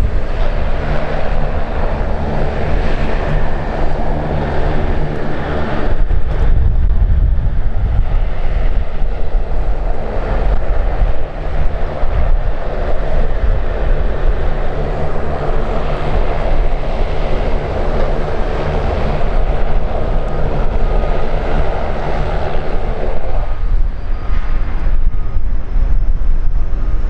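Jet airliner engines running steadily and loudly, a dense rumble with a thin whine that comes in about twenty seconds in.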